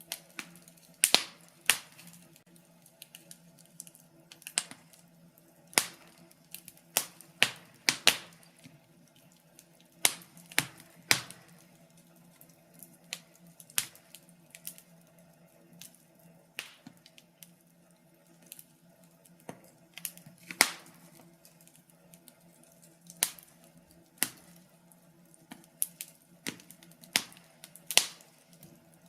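Wood fire crackling in a fireplace: irregular sharp pops and snaps, a few every few seconds, over a faint steady hum.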